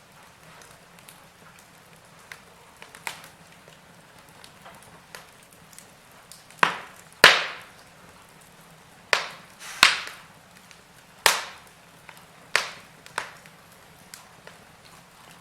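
Wood fire in a fireplace crackling: irregular sharp pops and snaps over a faint low hiss, sparse at first, then a run of louder pops in the second half, the loudest about seven seconds in.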